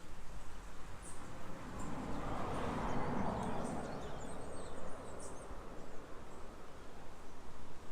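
Outdoor ambience with scattered high bird chirps over a rushing noise that swells in the middle and fades again.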